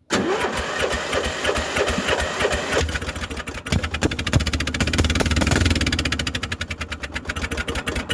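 Polaris Trail Boss 350L ATV engine running with a rapid, uneven firing beat, revving up about midway.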